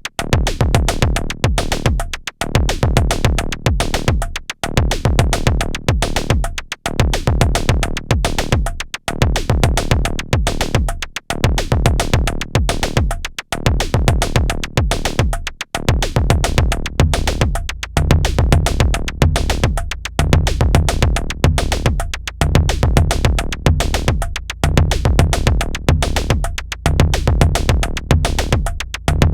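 Modor DR-2 digital drum synthesizer playing a dense, fast electronic drum pattern that repeats in phrases about two seconds long. About halfway through, a deep sustained low tone comes in under the hits and keeps going.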